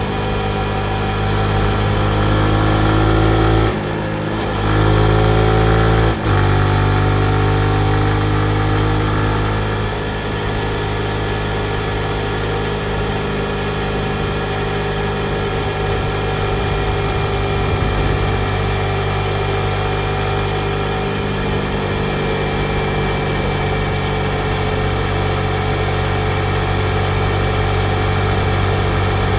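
Yamaha MT-15's single-cylinder engine under way, revving up twice with a brief drop in pitch after each, about four and six seconds in, like upshifts, then running at a fairly steady speed.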